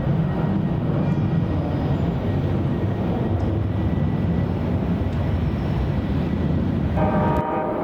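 Jet airliner engines giving a loud, steady low rumble with a faint high whine over it. Near the end, higher engine tones briefly come in, then the rumble drops off suddenly.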